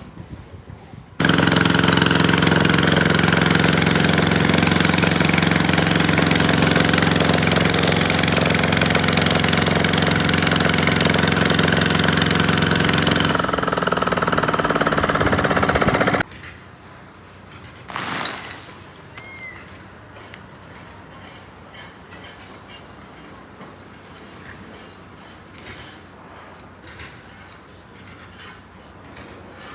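Loud construction machinery with an engine running steadily. It starts abruptly about a second in and cuts off just past the halfway mark. Quieter site background follows, with a single knock a couple of seconds later.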